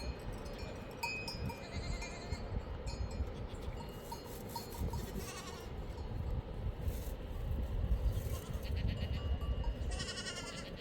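Livestock bleating, with calls about five seconds in and again near the end, over a steady low rumble and faint clinks of animal bells.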